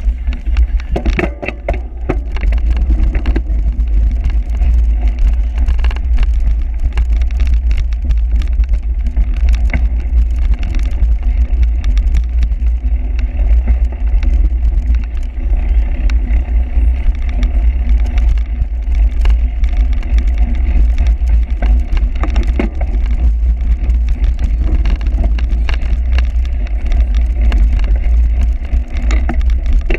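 Steady, loud wind rumble on the microphone with a constant scatter of clicks, knocks and rattles, as a camera rides along with a bicycle over a rough cyclocross course.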